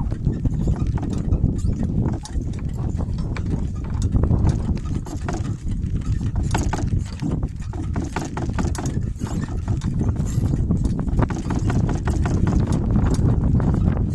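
Donkey hooves clopping as he works in harness pulling a cart, with scattered sharp clicks and knocks. A heavy, steady rumble of wind on the microphone runs under it and is the loudest thing.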